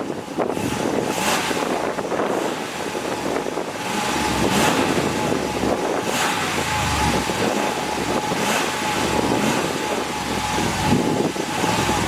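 2022 Jeep Wagoneer's 5.7-litre eTorque V8 running, heard through its exhaust, with the sound swelling a few times.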